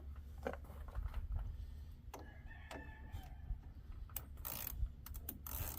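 A rooster crowing faintly about two seconds in, over scattered sharp clicks and knocks of hand work on the truck's radiator hose.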